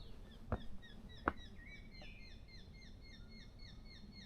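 A bird calling in a fast, even run of short, falling high notes, about three a second, from about two seconds in. A couple of sharp clicks come in the first second and a half.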